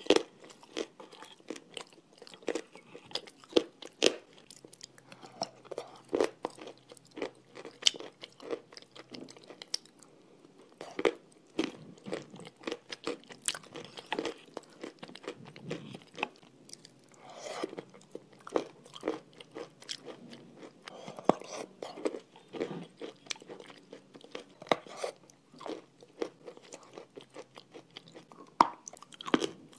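Close-miked mouth sounds of eating a thick white clay paste with crunchy chalk: sticky, wet chewing broken by irregular crunches and sharp clicks.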